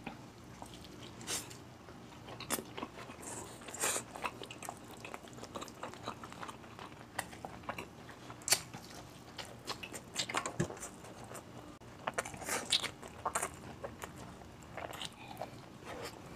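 A man biting and chewing tender braised beef kaldereta with rice: wet, smacking mouth sounds in short, irregular clicks, with a couple of sharper smacks a little past the middle.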